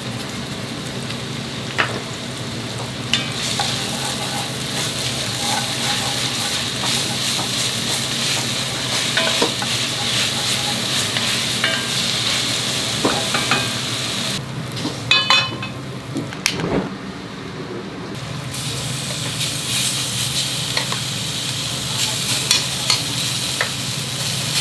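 Food sizzling in a hot frying pan while it is stirred, with scattered clicks of the utensil against the pan and a steady low hum beneath. The sizzle drops away for a few seconds just past the middle, then comes back.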